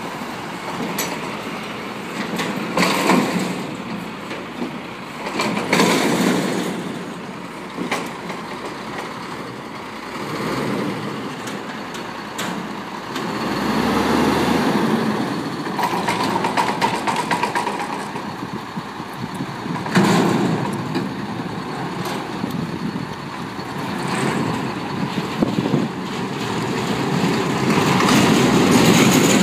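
Garbage truck running and working, its engine noise rising and falling, with several sudden loud bursts of noise.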